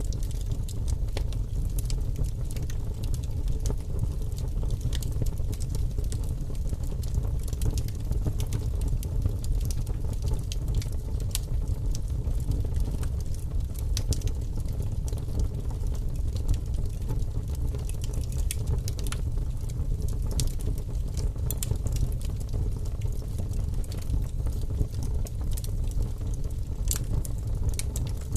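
Firewood burning in a fireplace, crackling with frequent irregular sharp snaps and pops over a steady low rumble.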